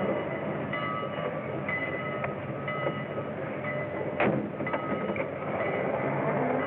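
Train running with a continuous rumble and rattle, faint high tones coming and going over it, and one sharp click about four seconds in.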